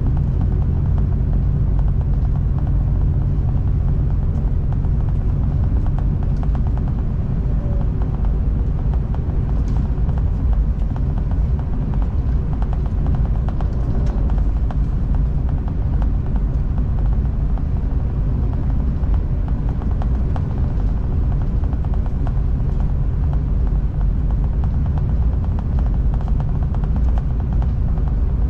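V/Line passenger train running at speed, heard from inside the carriage: a steady low rumble of wheels on the rails and running gear.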